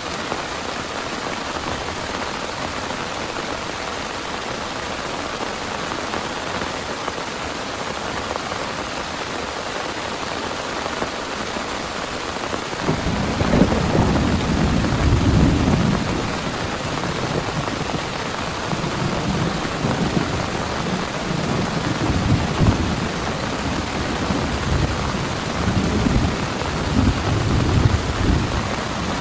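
Heavy rain falling steadily, with thunder rumbling in about halfway through, loudest for a few seconds, then rolling on in waves.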